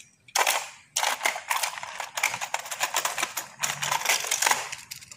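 Small die-cast metal toy cars clinking and rattling against each other as a hand rummages through a plastic drawer full of them, a quick run of many clicks that stops near the end.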